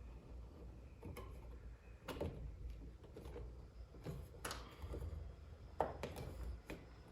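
Faint, irregular clicks and light knocks as a truck door mirror and its mount are handled and fitted.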